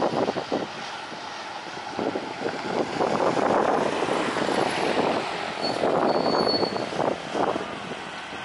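A vehicle passing with a rough, noisy rumble that swells in the middle and eases off near the end.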